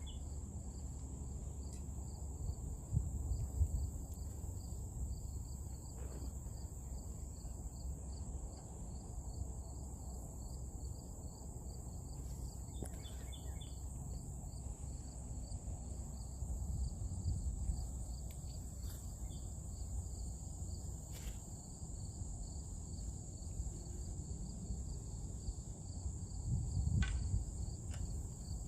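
Outdoor insect chorus: a steady high-pitched drone with a faster pulsing chirp beneath it, constant throughout, over a low rumble.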